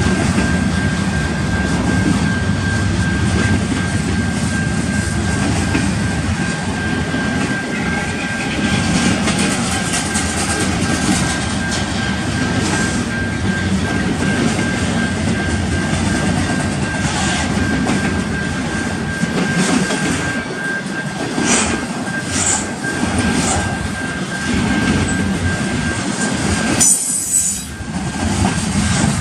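Cars of a passing intermodal freight train rolling by, a steady rumble and rattle of wheels on rail. A thin, steady high-pitched squeal runs over it and stops a couple of seconds before the end.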